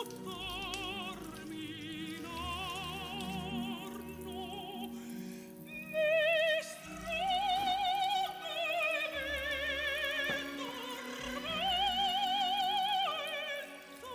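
Operatic singing with a wide vibrato on long held notes, classical music.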